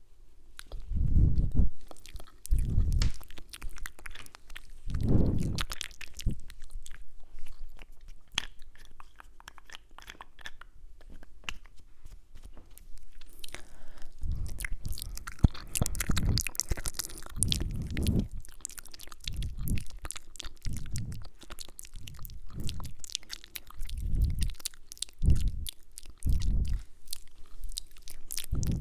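Close-miked ASMR mouth sounds: wet clicks and kissing sounds, with soft low thumps against the microphone every second or two.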